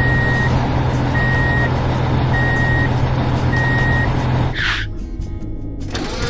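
A truck's engine runs with a steady hum while its reversing alarm beeps four times at an even pace. A short hiss comes about three-quarters of the way through, and the engine hum stops with it.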